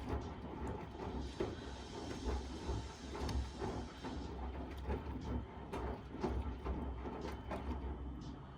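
Miele W1 front-loading washing machine running: a steady low motor hum with irregular knocks and clatter from the turning drum.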